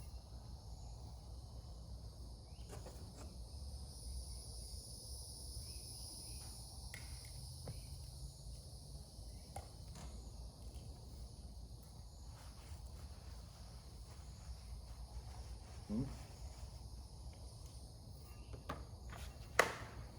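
Steady chirring of crickets and other night insects, with a low hum beneath, a few faint clicks and one sharp knock near the end.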